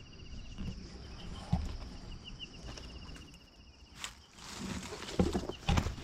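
Forest insects buzzing steadily with a rapid pulsing chirp, while footsteps and rustling through vegetation come in, with a few dull thumps, busiest in the second half.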